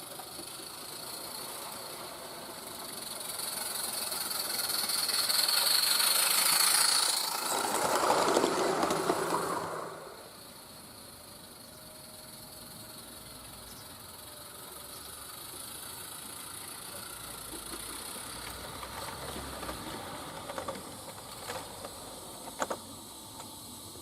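A Roundhouse Lady Anne 16mm-scale live-steam garden locomotive running with steam hissing. It grows louder to a peak about six to nine seconds in as it passes close, then drops off sharply at about ten seconds to a quieter steady hiss, with a few sharp clicks near the end.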